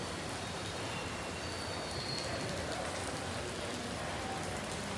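Steady hiss of heavy falling water, with no break or change.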